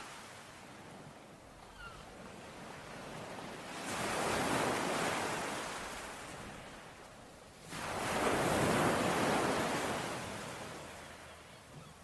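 Ocean waves washing onto a shore in two surges: the first swells about four seconds in and recedes, the second breaks more suddenly near eight seconds and fades away.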